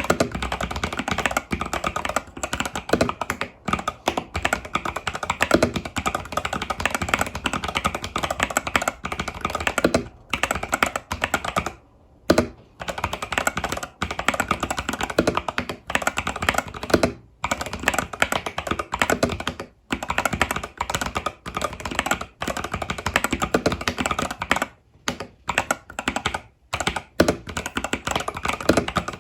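Fast continuous typing on an Epomaker TH80 Pro mechanical keyboard with Epomaker Budgerigar tactile switches and stock keycaps: dense runs of key clacks, broken by brief pauses.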